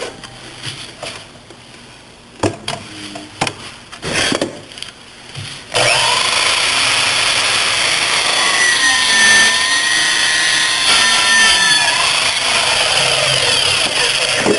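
REXON metal-cutting sliding miter saw: a few clicks and knocks of handling, then about six seconds in the saw starts abruptly and cuts through metal, a loud steady cutting noise with a high ringing screech that wavers in pitch.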